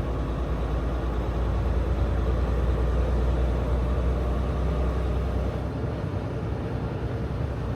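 Semi truck's diesel engine running steadily at cruising speed, a low drone under a steady hiss of road and tyre noise.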